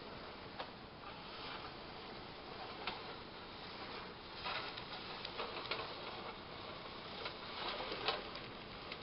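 Tinplate friction-drive toy train running along metal O gauge track: a steady rattle with scattered clicks, growing louder twice, about halfway through and again near the end.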